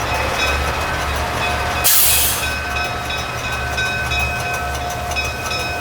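Diesel engine of a Peterbilt semi truck idling with a steady, pulsing low rumble, and a short burst of hissing air about two seconds in, like an air brake releasing.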